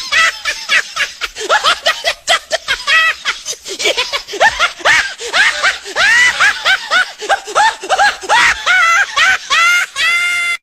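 Rapid, high-pitched snickering laughter in a long run of short bursts that cuts off suddenly at the end.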